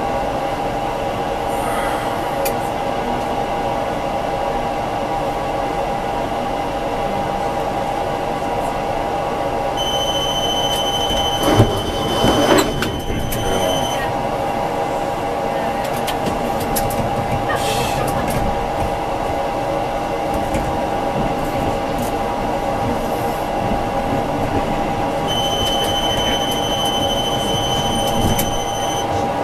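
Tram running on its rails with a steady hum. A high, steady squeal sounds twice, for about four seconds each time, and there is a brief clatter about twelve seconds in.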